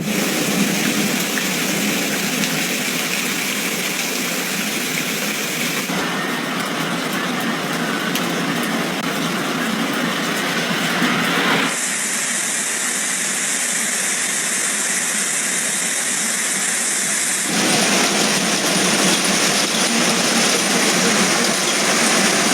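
Torrential storm rain and running water: a loud, dense, steady hiss that changes in tone abruptly about 6, 12 and 17 seconds in.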